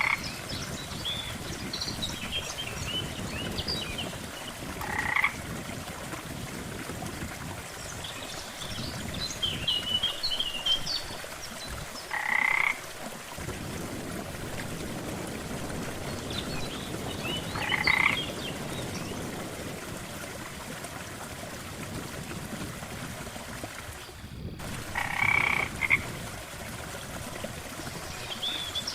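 Frogs croaking at a lake: a loud croak about every five to seven seconds, with smaller chirping calls in between, over a steady background hiss.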